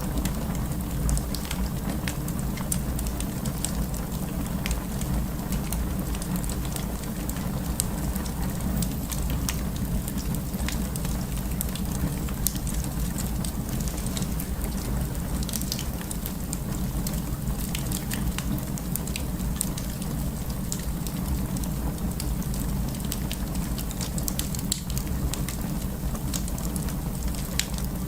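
Wood fire burning in a fireplace: steady crackling with scattered sharp pops and snaps over a constant low rumble.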